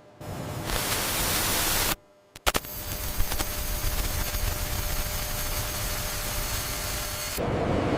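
Loud, even static-like rushing noise with no clear tone. It cuts out abruptly about two seconds in, comes back after a couple of sharp clicks, and shifts to a lower, fuller rush near the end.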